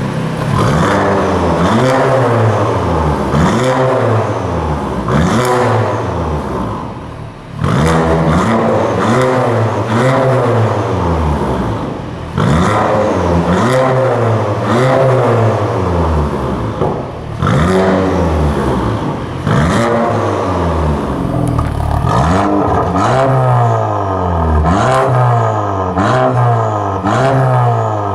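Audi A4 B9 2-litre four-cylinder engine being revved through its tuned exhaust, in repeated blips that rise sharply and fall back about every two seconds, quicker and shorter toward the end.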